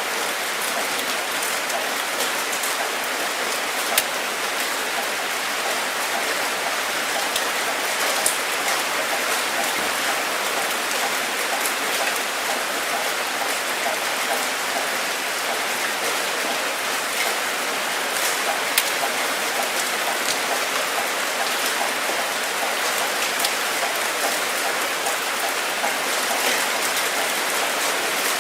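Steady rain falling, an even hiss with occasional sharp drop clicks.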